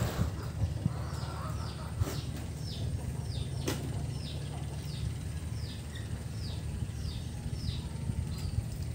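A bird calling, a quick high falling note repeated about twice a second, over a steady low rumble. Two sharp knocks come about two and nearly four seconds in.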